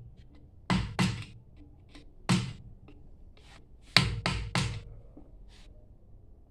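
Hammer blows on a booster pump being dismantled to reach its shaft seal and bearing: about six sharp strikes, two close together, then one, then a quick run of three, with a few lighter taps between.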